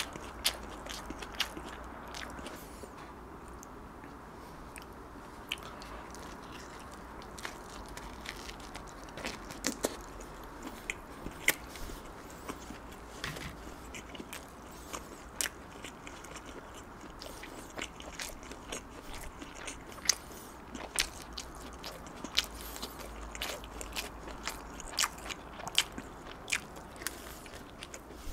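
Close-miked chewing of a mouthful of pizza bread, with irregular sharp wet mouth clicks and smacks.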